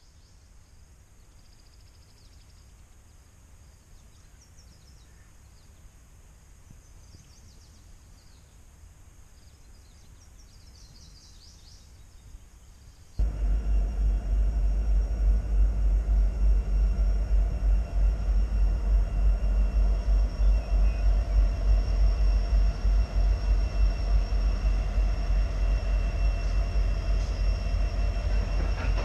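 Quiet at first with a few faint high chirps; about thirteen seconds in, a sudden jump to the loud, steady low rumble of an approaching freight train's diesel locomotives, with steady engine tones over it.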